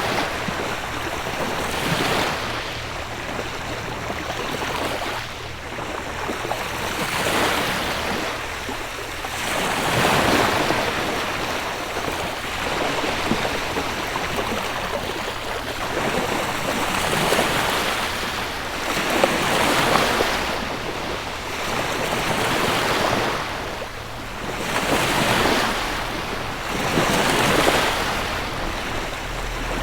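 Gentle sea waves breaking and washing up the shore, one swell of surf every two or three seconds.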